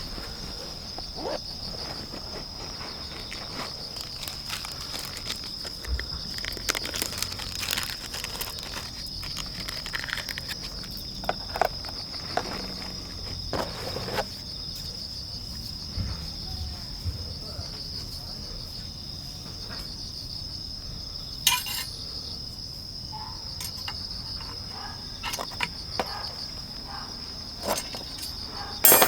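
Crickets chirring steadily, a continuous high-pitched insect drone, with scattered short clicks and knocks from gear being handled, the loudest near the end.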